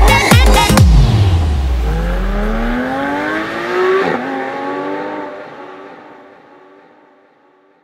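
Dance music stops about a second in, then a car engine accelerates with its pitch rising. It changes gear about four seconds in, climbs again and fades away.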